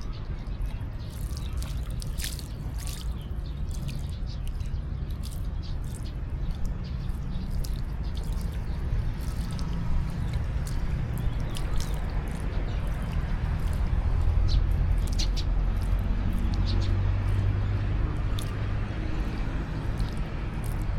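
Water splashing and dripping in a pool as macaques play in it: many small sharp splashes over a steady low rumble that grows a little louder past the middle.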